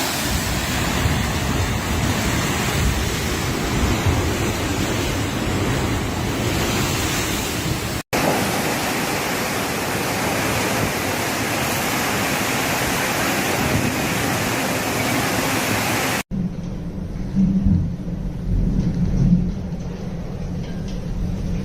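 Storm winds and heavy rain of a hurricane, a dense, steady rushing noise, in three recordings that cut abruptly about 8 and 16 seconds in. The last recording is quieter, with low, uneven gusts of wind buffeting the microphone.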